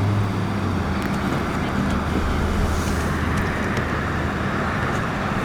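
Steady low mechanical hum, like a vehicle engine running, over road-traffic noise.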